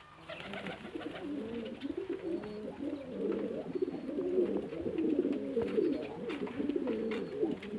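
A flock of domestic pigeons cooing together, many overlapping coos, growing louder and denser about three seconds in.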